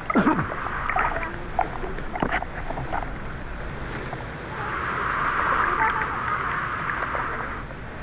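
Rushing river and waterfall water with scattered splashes, the hiss swelling louder for about three seconds past the middle.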